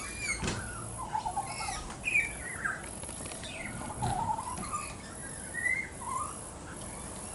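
Young pied butcherbird fledgling softly warbling, a string of short whistled notes that slide up and down in pitch: a juvenile practising its song.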